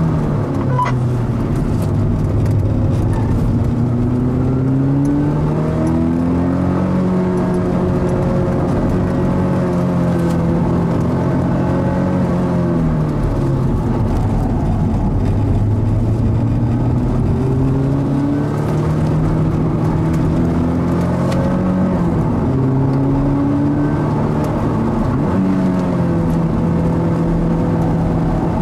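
Mazda NC Roadster's stock four-cylinder engine driven hard on a lap, pitch climbing under acceleration and dropping sharply as the driver comes off the throttle, several times over. The revs rise three times and fall away three times.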